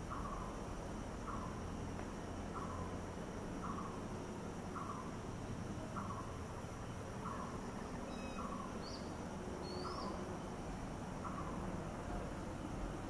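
A bird calling one short, slightly falling note over and over, evenly about once every 1.2 seconds, over a steady low background hiss. Two brief high chirps come in about two-thirds of the way through.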